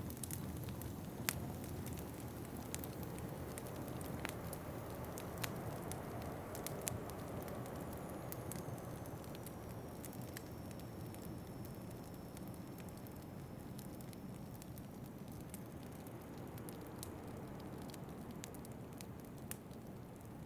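Wood fire crackling in a fireplace, with scattered sharp pops, over a steady low rush of wind. The pops come thickest in the first few seconds.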